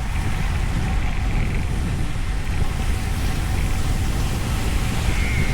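Steady rush of wind buffeting the microphone mixed with the hiss of heavy rain and tyres on a wet road, riding a bicycle through a downpour.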